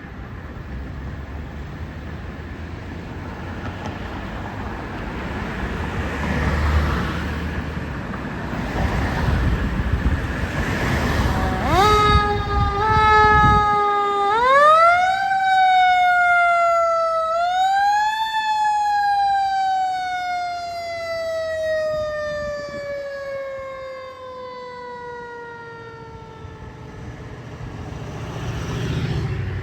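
Fire engine's Federal Q2B mechanical siren spinning up in a few short rising pulses about twelve seconds in, climbing to a high pitch twice, then winding down in one long slowly falling tone. Before it, a steady low truck engine and traffic rumble.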